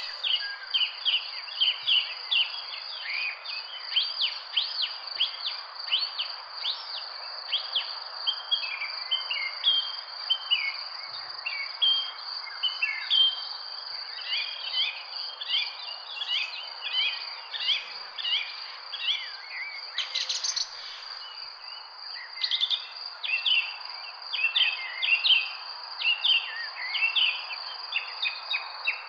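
Birds chirping constantly in quick, short notes over a steady, high-pitched insect drone, with a soft background hiss.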